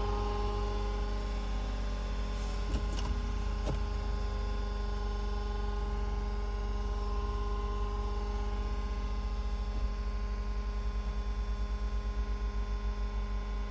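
Suzuki Every Wagon (DA17W) running with an abnormal noise of unknown cause: a steady whine of several held tones over a low pulsing engine hum. A few sharp clicks come about three seconds in, and the loudness starts to throb near the end.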